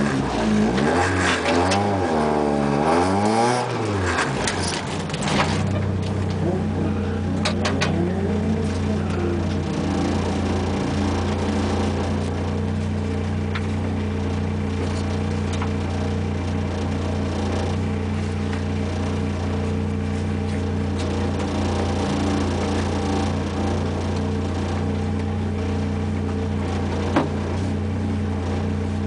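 Renault Clio race car's engine, heard from inside the cabin, revved up and down a few times in the first four seconds, then idling steadily. A few sharp clicks a few seconds in.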